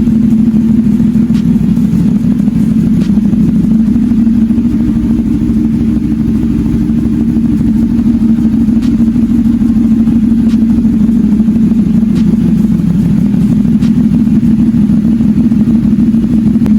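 CFMoto 450SR parallel-twin motorcycle engine idling steadily through an aftermarket SC Project exhaust.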